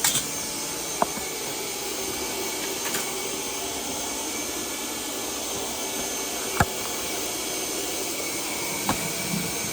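Shop vacuum running steadily, as used to clean soot and ash from an oil boiler during a tune-up, with three sharp metallic clicks: about a second in, past the middle, and near the end.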